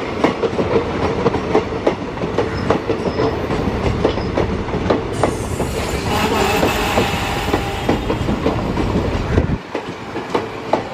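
Passenger coaches of an express train rolling past at speed, their wheels clattering over rail joints in a steady run of irregular clicks over a continuous rumble. A faint high wheel squeal joins about six seconds in.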